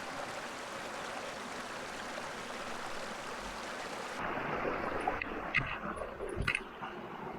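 Steady rush of running water. About four seconds in the sound changes abruptly to a quieter background with a few sharp clicks and a knock.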